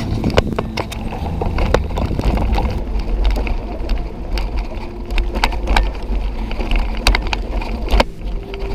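A bicycle riding over a rough, rocky dirt trail: a steady low rumble with frequent sharp rattles and knocks.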